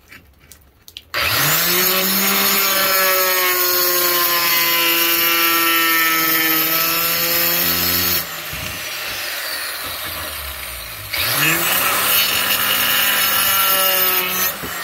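Workforce electric wet tile saw switched on about a second in, its whine rising as the motor comes up to speed, then running steadily while cutting ceramic tile. Around eight seconds it is switched off and the whine falls as it winds down; about eleven seconds in it starts again and runs until just before the end.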